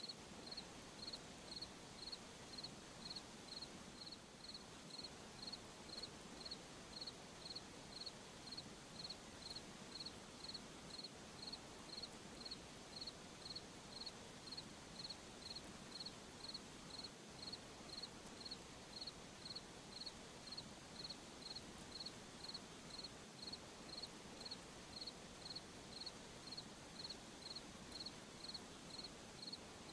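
A cricket chirping steadily, high-pitched, about two chirps a second, over a faint background of other night insects.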